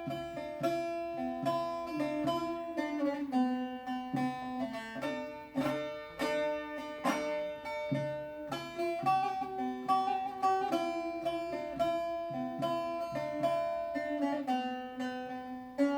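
Bağlama, the Turkish long-necked lute, plucked and playing a melody, one note after another, each ringing and fading.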